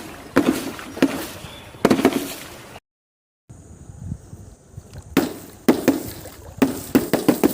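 Objects being crushed or smashed: a series of sharp cracking impacts, each with a short crunching crackle after it, three in the first two seconds, then a sudden cut to silence, then a quicker run of four or five more.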